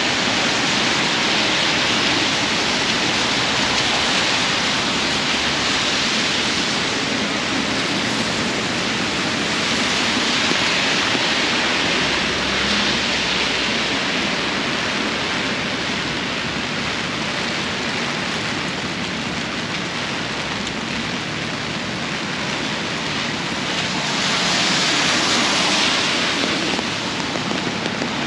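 Heavy rain falling on an umbrella overhead and on the wet street: a steady, dense hiss that swells for a couple of seconds near the end.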